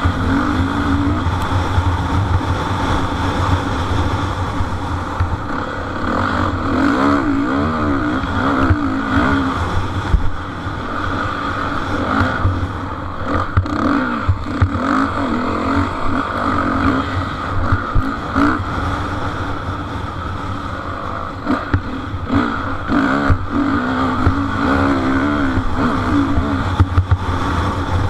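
Motocross bike engines racing, revving up and down as the riders work the throttle through the course.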